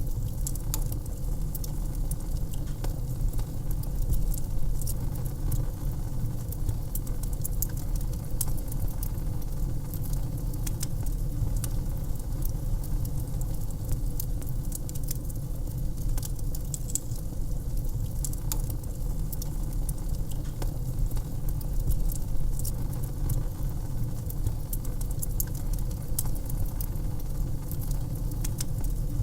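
Wood fire crackling in a fireplace: many small sharp pops and snaps, irregularly spaced, over a steady low rumble.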